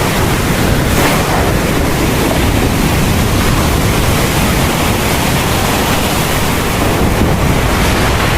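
Heavy rain pouring steadily in a thunderstorm, a dense, even hiss with no distinct thunderclap.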